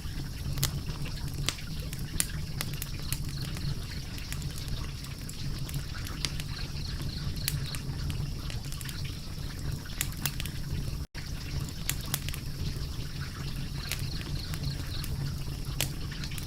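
Wood fire crackling: frequent irregular sharp pops and snaps over a steady low rumble. The sound cuts out for an instant about eleven seconds in.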